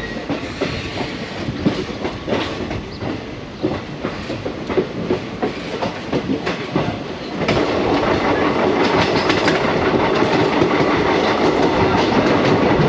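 Passenger train running over the rails, heard from the open doorway of a coach: wheels clattering over rail joints and points. About seven seconds in, the sound turns abruptly into a louder, steadier rumble.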